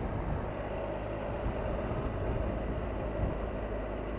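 Triumph Tiger 1200's three-cylinder engine running at a steady cruise under wind and road noise, heard from the moving motorcycle.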